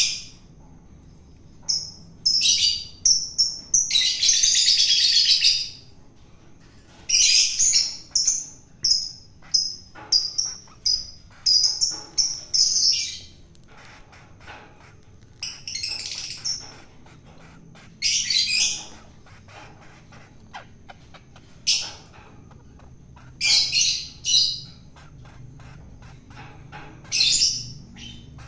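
Long-tailed shrike giving rough, scratchy calls in short bursts, with one longer rasping call about four seconds in and a quick run of short calls a few seconds later.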